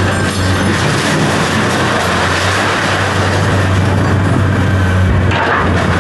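Heavy machinery's engine running steadily at a constant pitch, with a loud noisy rattle over it.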